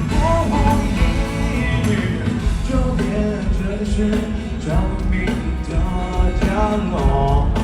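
Live concert music: a band with heavy bass and drums playing, with a sung vocal melody coming in and out over it.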